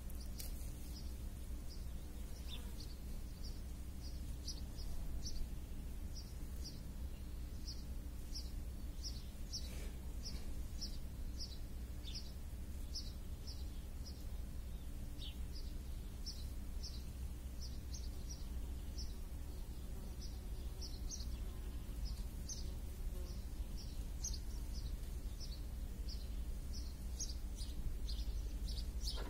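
A small bird chirping over and over, short high notes about two a second, over a steady low background rumble.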